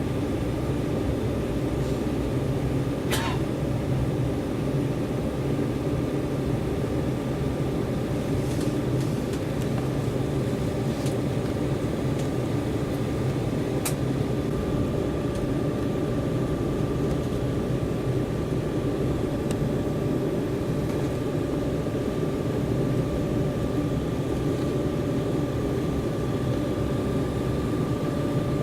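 Steady cabin noise inside an Embraer 190 jet airliner: an even roar of engines and airflow with a constant high whine. A couple of faint clicks come about 3 and 14 seconds in.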